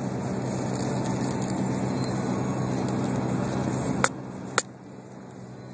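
Car cabin noise with a steady engine hum while driving, then two sharp clicks about four seconds in, after which the noise drops to a quieter hum.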